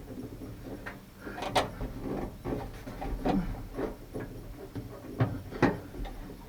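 Irregular light clicks and knocks of small metal parts being handled and worked into place while fitting a new outside door handle and its linkage in a 1992 Nissan pickup door. The sharpest click comes about one and a half seconds in, with a few more near the end.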